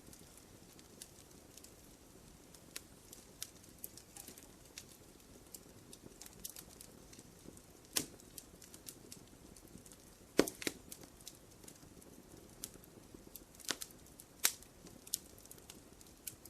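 Wood fire crackling in a fireplace: a low steady hiss with irregular sharp pops and snaps, the loudest a handful of louder cracks about 8, 10.5 and 14 seconds in.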